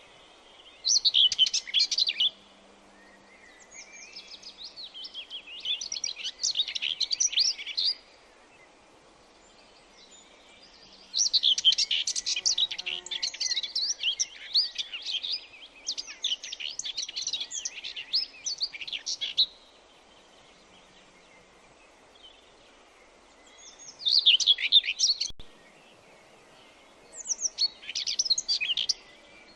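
Songbirds singing in phrases of rapid, high chirping notes, several seconds of song broken by pauses of a few seconds, over a faint steady background hiss.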